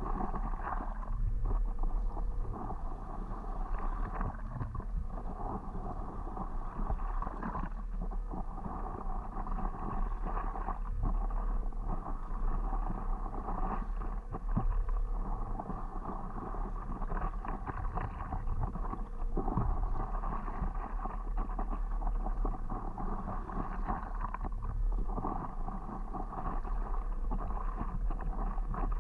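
Water sloshing against a stand-up paddleboard as it is paddled, swelling and fading every few seconds, with wind rumbling on the microphone.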